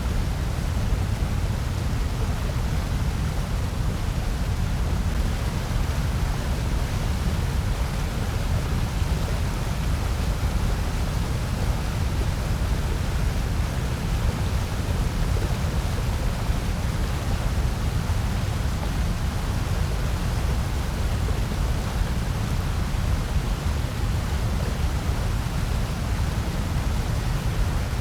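Steady generated noise, presented as white noise, with a deep low rumble under a softer hiss. It holds constant throughout, with no change in level or character.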